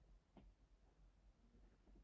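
Near silence: faint room tone with a low hum, and one soft tap about half a second in.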